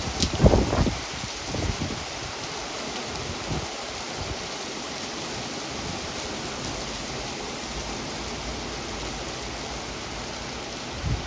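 Heavy rain pouring down steadily in a thunderstorm, a dense even hiss. A few short low thumps come in the first second or two, the loudest moment, with another one or two later.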